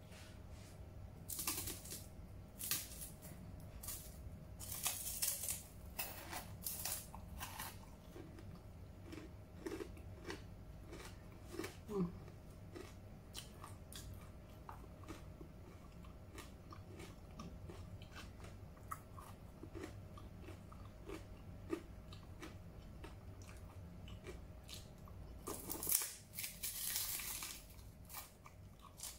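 Crunching and chewing of crispy dried okra, bitten and chewed close to the microphone. The crunches come thick in the first several seconds and again in a loud cluster near the end, with softer, sparser chewing clicks between.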